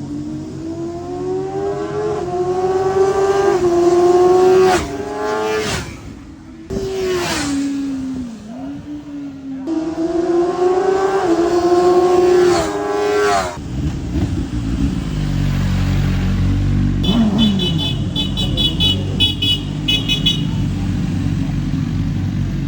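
CFMOTO 750 SR-S inline-four engine revving hard, its note climbing in pitch over several seconds, dropping and climbing again a few times. After about thirteen seconds it gives way to a lower, steady rumble, with a rapid run of high beeps a few seconds later.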